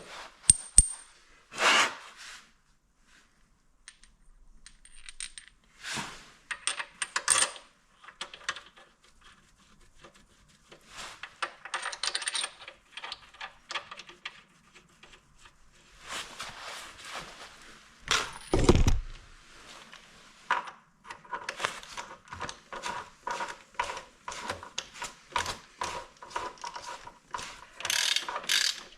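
Metal clinks and knocks of engine parts and hand tools being handled, with one heavier low thud about two-thirds of the way through. This is followed by a long run of even clicks, about three a second, typical of a hand ratchet snugging down connecting-rod cap bolts.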